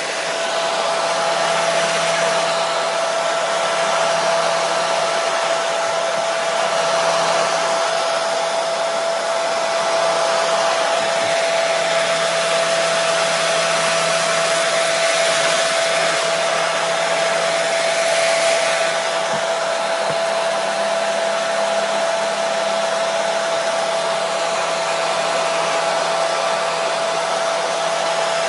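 Hair dryer running continuously: a steady rush of blown air with an even motor whine.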